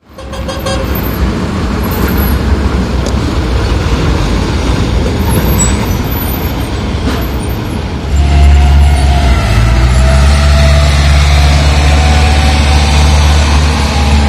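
Tata 1615c truck's diesel engine: a low rumble mixed with road noise at first, then about eight seconds in it turns louder and steady, with a deep hum and a whine above it.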